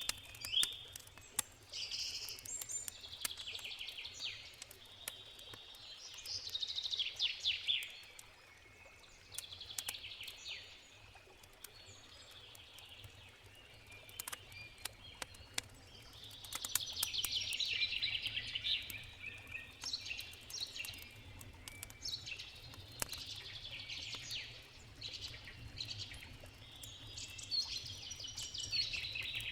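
Songbirds singing in short, rapid trilled phrases that come again and again, over the sharp crackles and pops of a wood campfire and the low, steady rush of a river.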